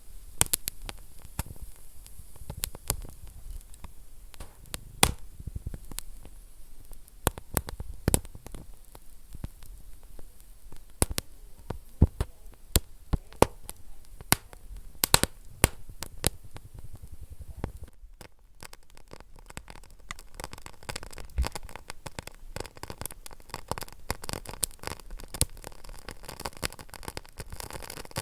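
Wood fire burning in a fireplace, crackling with sharp pops and snaps over a low hiss. A little past halfway the sound dips briefly, then the crackling turns denser and finer.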